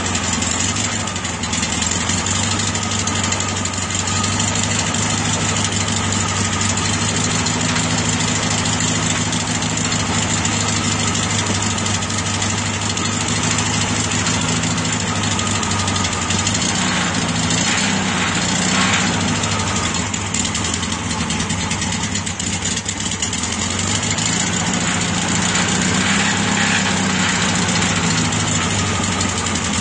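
Newly built 1641 cc air-cooled VW Beetle flat-four engine running steadily at idle, its speed rising and falling slightly about halfway through and again near the end.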